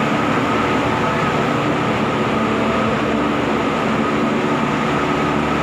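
Car ferry's engines and machinery running, a loud steady rumbling drone with a constant hum through it.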